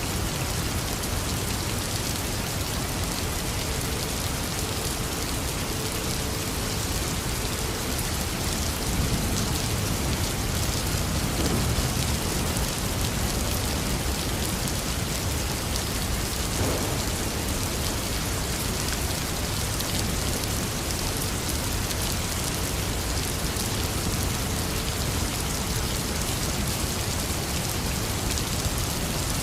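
Heavy rain falling steadily, with a low rumble of distant thunder swelling briefly about a third of the way in.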